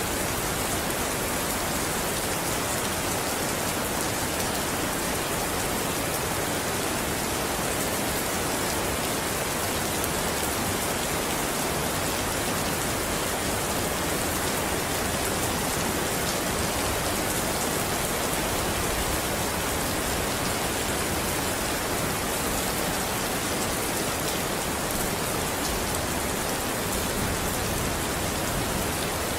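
Steady rain falling on a surface, an even hiss of many drops with no change in strength and no thunder.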